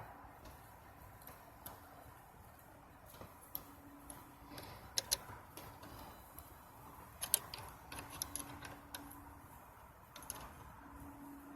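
Scattered light clicks and taps from hands working on wiring, with a few sharper clicks about five and seven seconds in. A faint low hum comes and goes.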